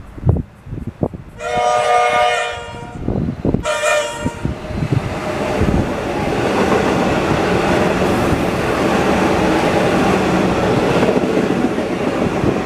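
Train horn sounding one long blast and then a short one, as a train arrives and runs past with a steady rumble and rush of wheels on rails.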